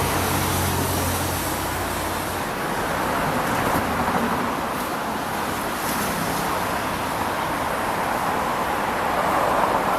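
Steady road traffic noise, with a low engine hum from a passing vehicle during the first couple of seconds.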